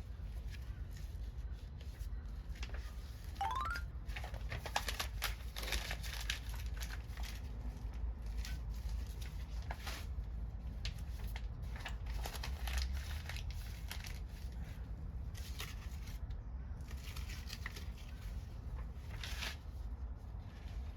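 Wood fire crackling, with many scattered snaps and pops over a steady low rumble. A short rising whistle comes about three and a half seconds in.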